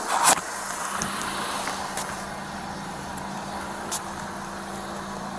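Steady hum of an idling car engine, with a sharp rustle of clothing brushing against the body-worn camera at the start and a few faint clicks.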